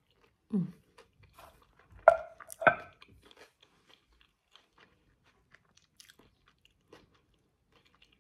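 A person chewing a crispy deep-fried wonton, with soft crunches. A few short louder mouth sounds come in the first three seconds, then only faint chewing.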